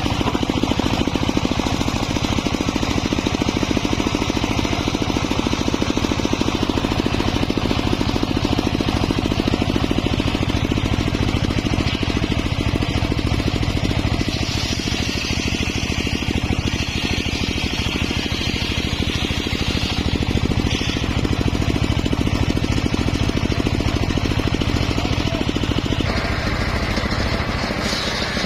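Engine of a homemade circular sawmill running steadily, with a higher whine from the saw that changes pitch and strength about 15 seconds in and again near the end.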